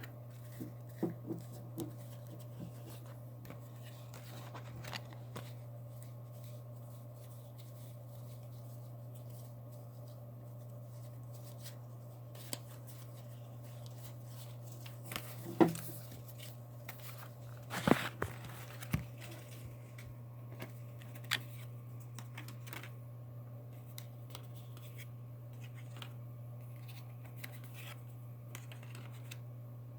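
Tarot cards being handled: scattered soft slides and taps, a few sharper clicks around the middle, over a steady low electrical hum.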